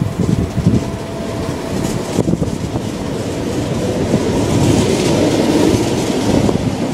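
Tyne and Wear Metro train pulling away from the platform and running past close by, its wheel and rail noise growing louder towards a peak a few seconds in as it picks up speed.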